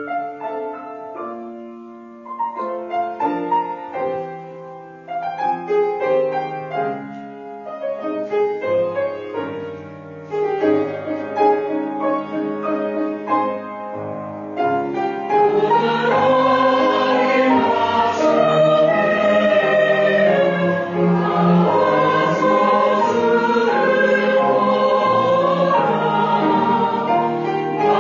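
Church choir singing a hymn with piano accompaniment. For about the first half the piano plays on its own as an introduction, and then the full choir comes in, louder.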